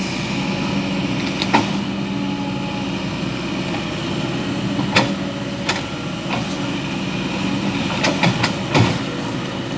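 A truck engine running steadily at low revs, with sharp knocks and clanks about a second and a half in, around the middle, and a quick cluster near the end.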